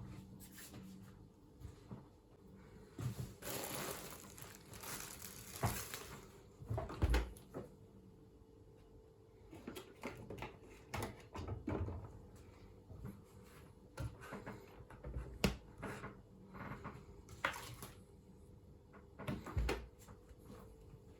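Mushroom soup being eaten close to the microphone: irregular eating sounds of chewing and slurping, with scattered sharp clicks and a longer noisy stretch about three to six seconds in.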